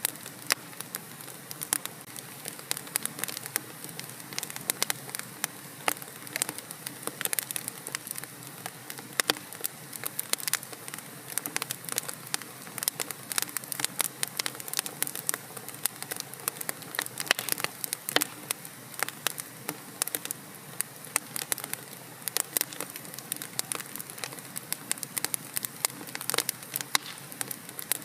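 Fire burning in a fireplace, crackling: dense, irregular snaps and pops over a steady hiss.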